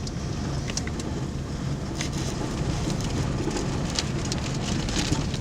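Storm wind rumbling on the microphone, with scattered ticks of raindrops hitting nearby.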